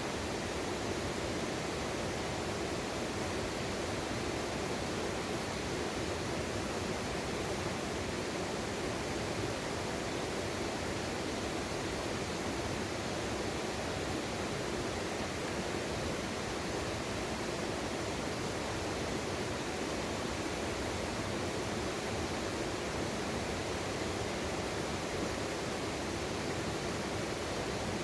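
Steady rush of a mountain stream's water flowing over rocks, an even unchanging hiss.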